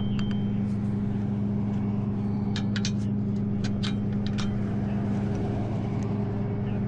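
Truck engine idling with a steady low hum, with a quick run of sharp clicks and clinks in the middle.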